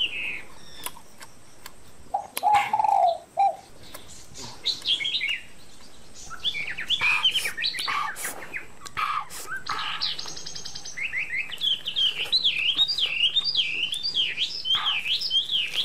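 Birds chirping and singing in quick repeated warbling notes, busiest near the end, with a few sharp clicks among them.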